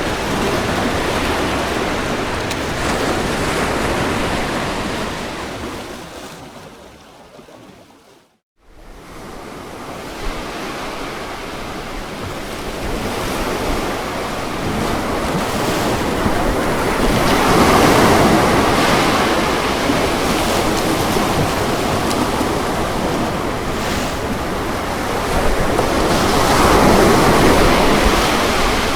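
Ocean surf washing onto a lagoon beach, a continuous hiss of breaking water. About seven seconds in it fades out to a moment of silence and then fades back in. Two louder waves swell and break in the second half.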